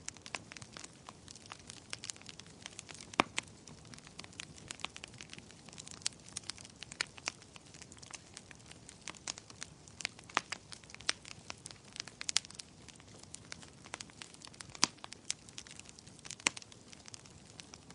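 Wood fire crackling in a fireplace: irregular sharp pops and snaps over a soft steady hiss, with a few louder pops, one about three seconds in and another near the end.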